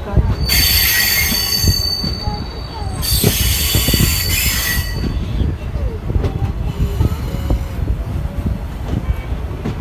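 Passenger train running with a steady low rumble, broken in the first half by two spells of high-pitched screeching, each about two seconds long, typical of steel wheels squealing on the rails.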